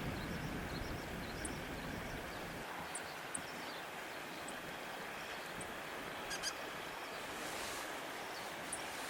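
Outdoor park ambience: a steady background hiss and rumble, with short, high bird chirps scattered through it and a quick cluster of calls about six seconds in.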